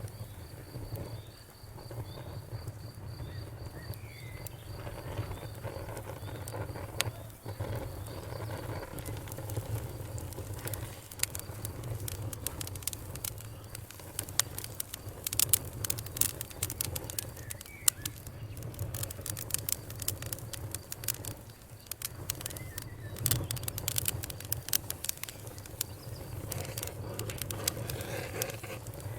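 Wood fire in a fireplace crackling, with sharp pops and snaps that come thicker from about eleven seconds in, over a low steady rumble of the flames. A faint high pulsing chirp repeats through the first eight seconds or so.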